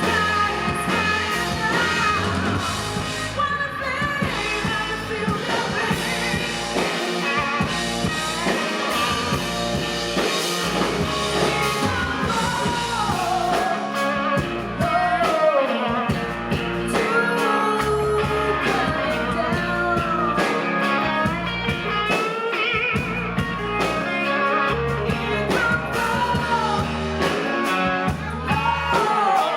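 Blues-rock band playing live, with singing over electric guitar, bass and drum kit.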